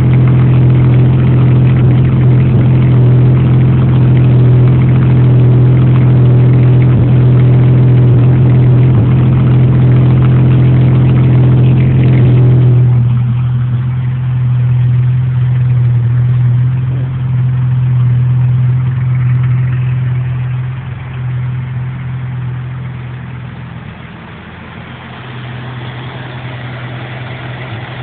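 Ford straight-six engine running steadily through its exhaust, holding one even pitch. About halfway through the sound suddenly softens and loses its harder upper tones, then fades further near the end.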